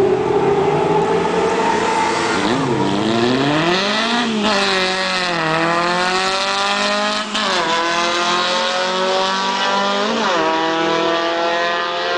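Air-cooled Volkswagen Beetle drag car launching and accelerating hard down the strip. The engine note is held steady at first, then climbs and drops sharply three times as the car shifts up through the gears.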